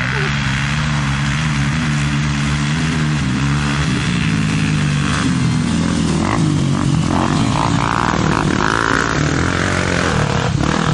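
Motorcycle engine running at speed, its pitch holding steady and then rising and falling a little after a few seconds, over a steady rush of wind noise.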